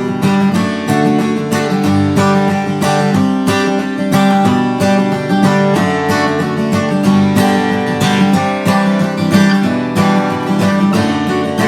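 Background music: strummed acoustic guitar with a steady, quick rhythm.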